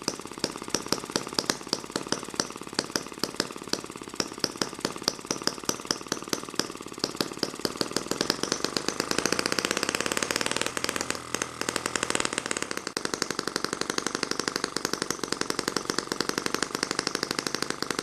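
M12 mini four-stroke gasoline model engine running, with a regular pop about twice a second at first. About eight seconds in it picks up speed and gets louder, dips briefly, then runs on at a steady faster pace.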